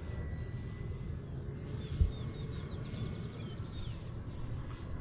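A bird chirping faintly, a quick run of short high notes lasting about two seconds, over a low steady rumble, with one brief thump about two seconds in.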